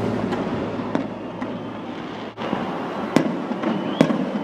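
Fireworks going off at a distance: a continuous rumble and crackle of bursts, with sharp bangs standing out, the loudest two about three and four seconds in.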